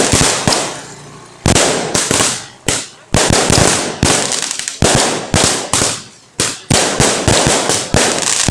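Fireworks going off: a rapid, irregular series of loud bangs, several a second at times, each trailing off briefly.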